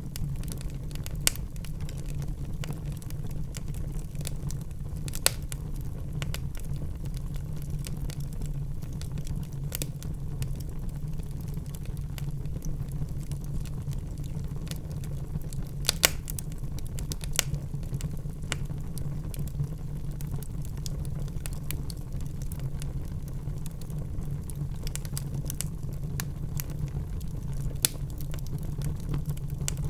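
Wood fire burning in a fireplace: a steady low rumble of the flames with scattered sharp crackles and pops, a handful of louder ones spread across the stretch.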